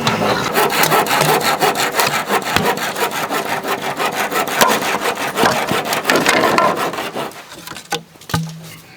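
Bamboo being sawn, rapid back-and-forth strokes that stop about seven seconds in, followed by a few separate knocks.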